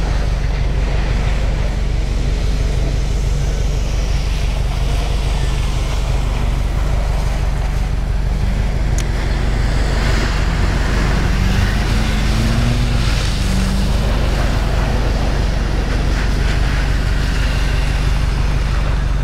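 Steady wind rumble on the microphone over a turbocharged Audi S4's engine revving up and down faintly as the car spins donuts in snow. The revs are clearest in the middle.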